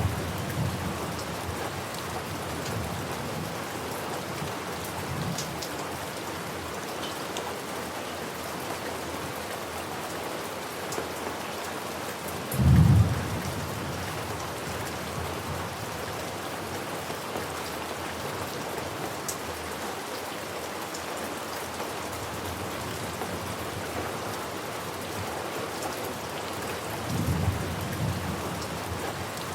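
Steady rain with short, low thunder rumbles: a faint one at the start, another a few seconds in, a louder one about halfway through, and one more near the end.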